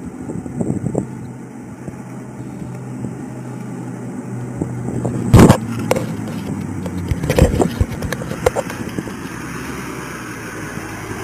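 A vehicle engine idling with a steady low hum. About five seconds in comes one loud, sharp bang, followed by a few softer knocks and rustles.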